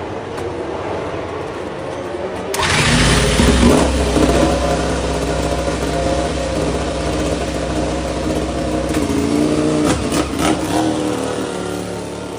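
Racing motorcycle engine firing up suddenly about two and a half seconds in and revving briefly, then running steadily at a high idle, with a few quick throttle blips near the end.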